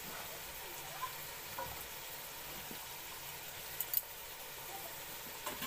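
Oil sizzling steadily in a steel pot under chopped tomatoes, fried garlic and freshly added ground spices, with a few faint crackles.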